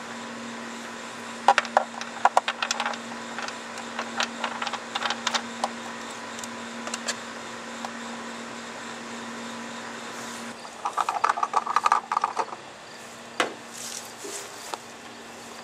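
Nissan 3.0 L V6 engine idling with a steady hum while hands work at the intake, giving scattered light clicks and knocks. About ten seconds in the hum stops and a quick run of rattling clicks follows, then a few knocks.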